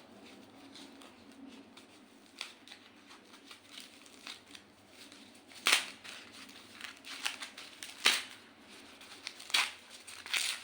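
Packaging of a small collar microphone being handled and opened: scattered rustles and clicks, with sharper snaps about six, eight and nine and a half seconds in.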